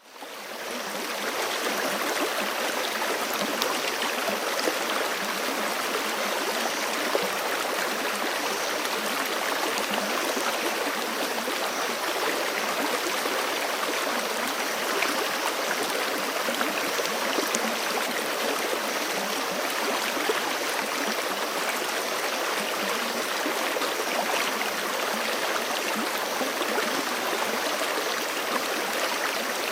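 Forest creek flowing over rocks, a steady rush of water with fine gurgling detail. It fades in over the first second, then holds even.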